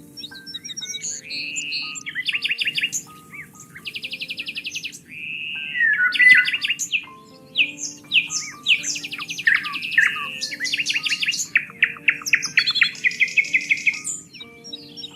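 Several songbirds singing and calling over one another, with rapid pulsed trills, buzzy repeated phrases and short chirps following each other, over faint low steady tones.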